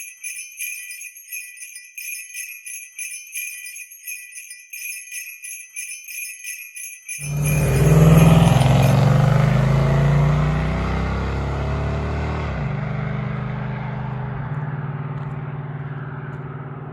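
Sleigh bells jingling in a steady rhythm for about seven seconds. Then the 1972 Road Runner's 383 V8 cuts in suddenly and loud, its revs falling away over a few seconds before it settles to a steady idle.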